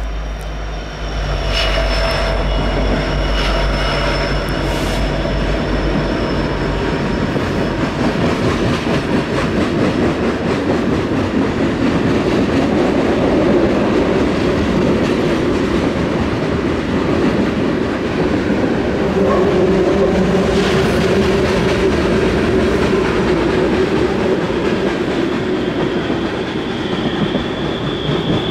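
Loaded freight train rolling past on snowy track: a low diesel locomotive drone for the first few seconds, then steady wheel and rail noise from the passing sulfur cars with clicking over the rail joints. A thin, high wheel squeal sets in near the end.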